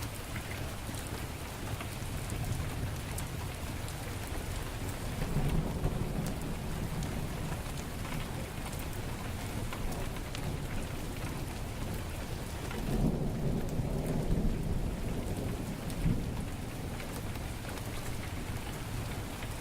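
Heavy rain falling steadily, with low rumbles of thunder swelling about five seconds in and again around thirteen seconds in.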